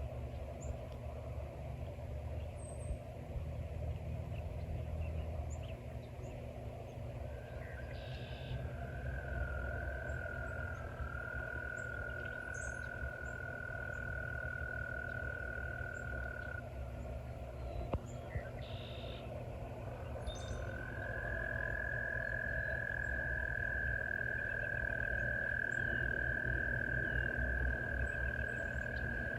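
Frogs trilling: two long, steady, high-pitched trills, each held for many seconds, the first beginning about a quarter of the way in and the second, louder, starting about two-thirds in. A faint low rumble sits underneath.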